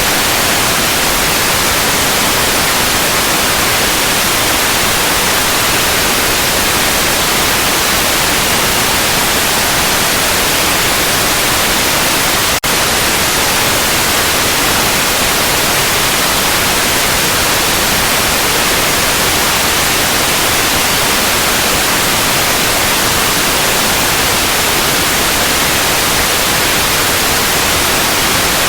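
Continuous generated white noise, a steady, even hiss across the whole range, with one momentary dip in level near the middle.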